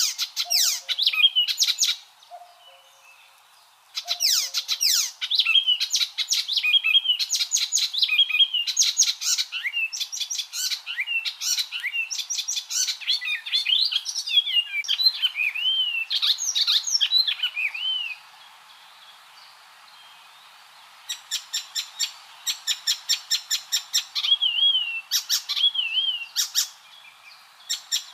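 Icterine warbler singing a rapid, varied song of chattering notes mixed with short slurred whistles, breaking off twice for a couple of seconds.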